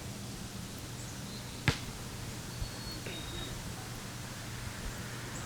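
A single sharp knock or crack a little under two seconds in, with a much fainter tap about a second later, over a faint steady low hum.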